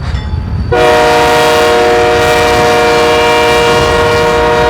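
A freight locomotive's air horn sounds one long, steady chord of several notes. It starts abruptly about a second in, over a low rumble.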